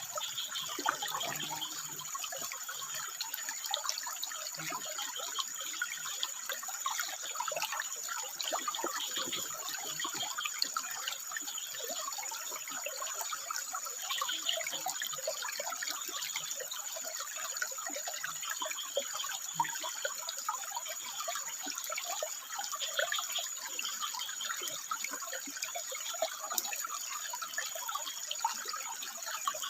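Water running and trickling over rocks, a steady splashing babble, with a thin steady high-pitched tone above it.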